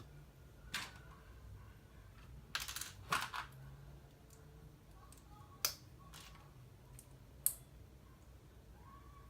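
LEGO bricks clicking and clattering as pieces are handled and pressed together: a cluster of clicks about two and a half to three and a half seconds in, and single sharp snaps near six and seven and a half seconds.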